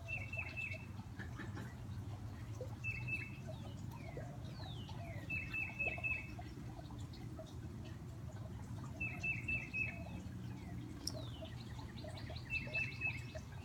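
Titmouse singing: five short phrases of three or four quick whistled notes, each phrase a few seconds apart. Another bird's long down-slurred whistles come in between, over the steady low splash of a backyard fountain.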